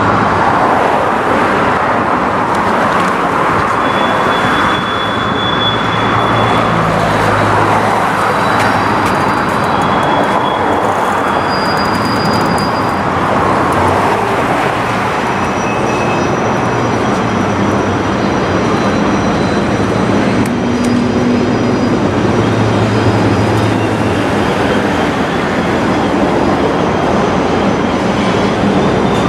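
Freight train rolling past: a steady, loud rumble of wheels on rail, with several short high-pitched squeals.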